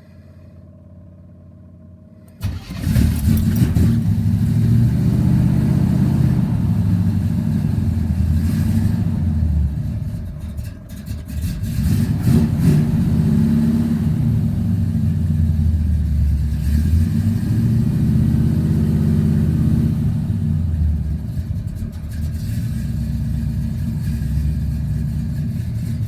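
A 1979 Chevy C20's bored-out 350 V8 with dual exhausts catches on a cold start with the choke on, about two and a half seconds in, and runs loud. It sags for a moment about ten seconds in, as if about to die, then picks back up and keeps running, a little quieter near the end.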